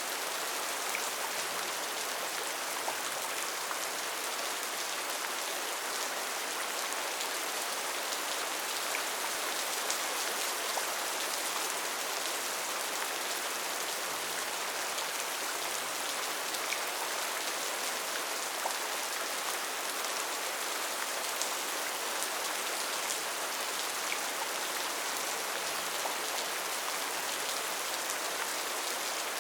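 Steady rain falling on foliage, an even hiss with scattered individual drops ticking through it.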